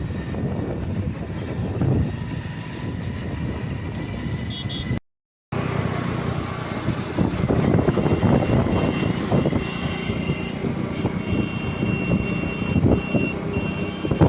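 Road vehicle noise: engines running steadily with a few faint tones over it, broken by a half-second cut to silence about five seconds in.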